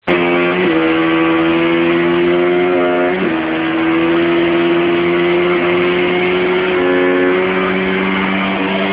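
Motorcycle engine running hard at high, steady revs on a dynamometer, its pitch dipping briefly twice early on and then climbing slowly.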